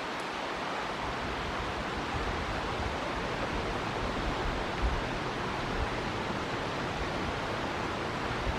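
River water rushing steadily, a constant even hiss of flowing water. A brief low gust of wind knocks on the microphone about five seconds in.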